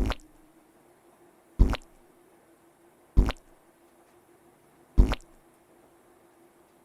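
Cartoon squish sound effects, four wet squirts about one and a half seconds apart, as icing is piped onto cupcakes.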